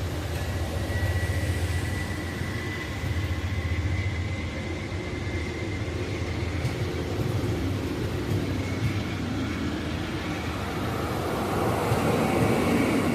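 A train moving through the station: a steady low engine rumble with a thin, high, slightly wavering whine over it, growing louder near the end.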